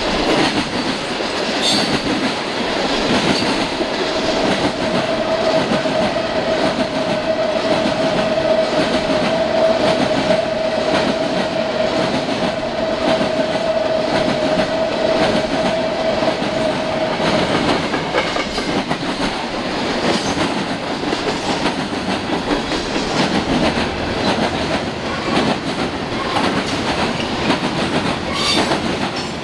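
Canadian National freight train of covered hopper cars rolling steadily past, with a continuous rumble and wheels ticking over the rails. A single steady high tone sounds from about four seconds in until about eighteen seconds.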